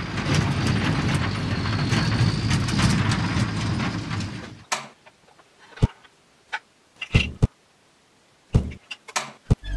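Plastic toy vehicle being rolled and handled: a rattling rolling noise for about four and a half seconds, then a few separate clicks and knocks.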